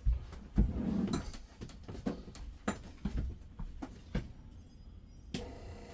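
Scattered small knocks and rattles, then about five seconds in the RV's water pump switches on and runs with a steady hum, drawing RV antifreeze out of the jug into the water lines.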